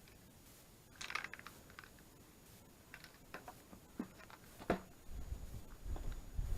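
Scattered light clicks and taps, with a quick cluster about a second in and a sharper knock near the end. A low rumble starts about five seconds in.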